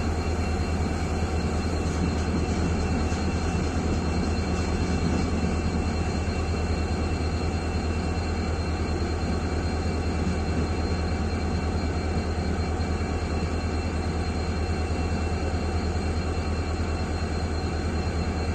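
Train in motion: a steady rumble of wheels on rails with a deep low hum that holds even throughout.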